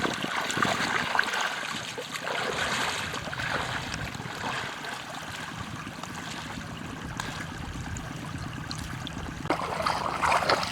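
Flowing water trickling steadily.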